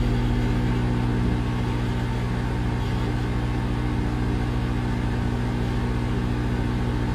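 Microwave oven running: a steady electrical hum from the transformer and magnetron over the even whir of its cooling fan.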